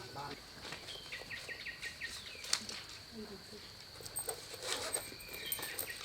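A bird calling quick runs of five or six short, falling notes, twice, over a steady high insect drone.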